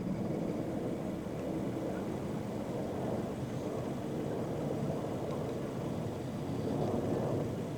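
Steady low rumble of a moving vehicle, running evenly.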